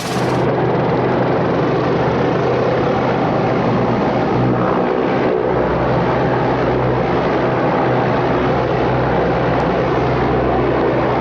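An 8-gallon-a-minute trailer-mounted pressure washer spraying through a turbo nozzle: a steady, loud rush of high-pressure water over the machine's steady engine hum.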